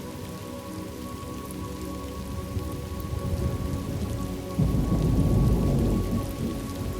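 Steady rain falling, with a roll of thunder that swells partway through, is loudest for about a second and a half, then rumbles away.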